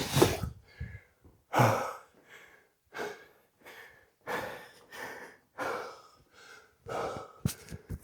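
A man breathing hard and heavily, one loud noisy breath after another about every second, winded from exertion midway through a hard conditioning workout. A couple of sharp clicks come near the end.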